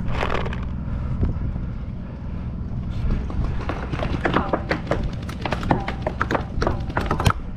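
Wind rumbling on the microphone, with an irregular run of sharp pops from about three seconds in: paintball markers firing.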